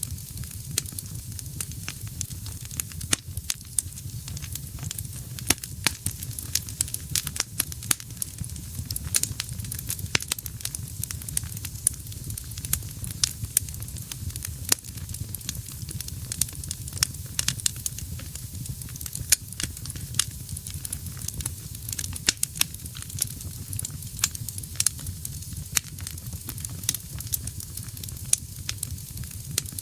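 Wood fire in a fireplace burning steadily, with frequent sharp, irregular crackles and pops over a low rumble of flame.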